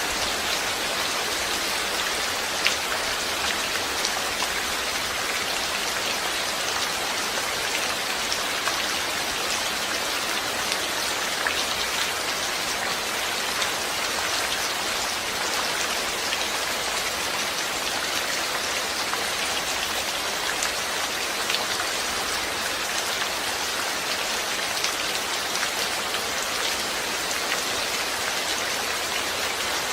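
Steady rain falling: an even hiss, with single close drops ticking sharply now and then.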